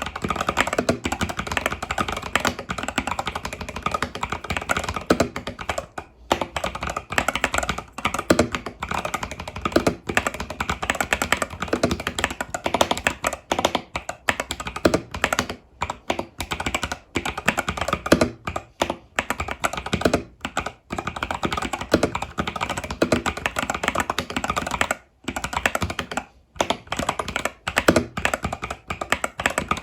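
Continuous fast typing on an Epomaker TH80 Pro mechanical keyboard with Epomaker Budgerigar tactile switches and stock keycaps: a dense run of keystroke clicks with a few brief pauses.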